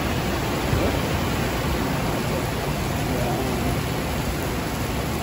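Heavy rain pouring steadily, heard as a dense, even hiss.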